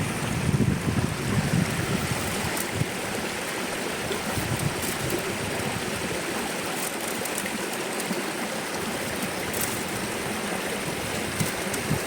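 Steady rush of running water, even and unbroken, with a few faint ticks over it.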